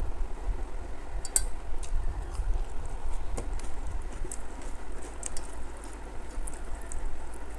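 Eating sounds: scattered soft clicks and smacks of chewing and of rice and curry being worked by hand, over a steady low rumble.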